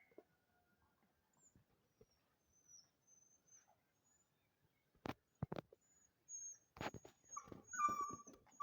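A dog whimpering: a short high cry near the end, after a few sharp knocks.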